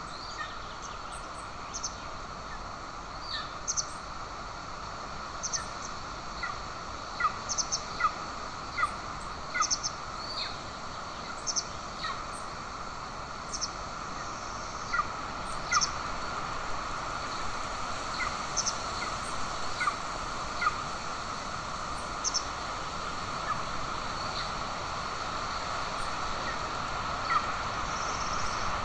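Short, high bird calls repeated at irregular intervals, sometimes in quick pairs, over a steady background hiss.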